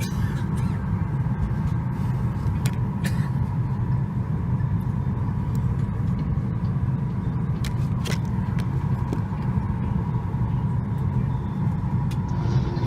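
Steady low rumble of cabin noise inside a Boeing 737 MAX 8 on the ground before takeoff, with a faint steady tone and a few light clicks.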